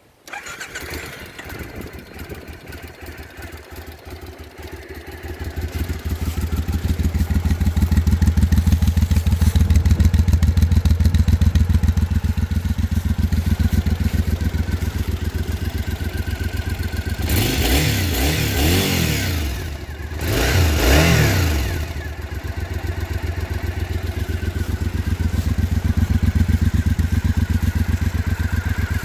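2012 Triumph Scrambler 900's air-cooled parallel-twin engine starting from cold: it catches at once and runs at idle, getting louder after about five seconds. About two-thirds of the way through it is revved twice, each rev rising and falling in pitch, then it settles back to a steady idle.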